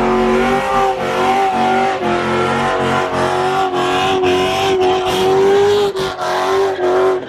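Car engine revved high and held there in one long, nearly steady tone for several seconds, stopping suddenly at the end.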